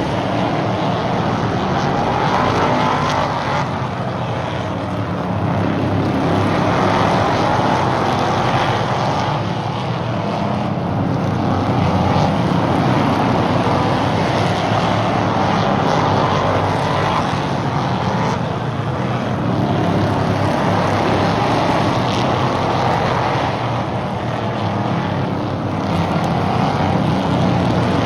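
Stock race cars running laps on an oval track: a continuous engine din from the field that swells and fades every several seconds as the cars come round and pass.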